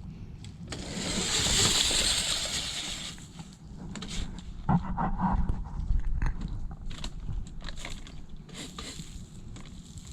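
48-volt Razor electric dirt bike climbing a steep dirt hill. A strong rushing hiss in the first few seconds, then scattered knocks and rattles from the bike over rough ground.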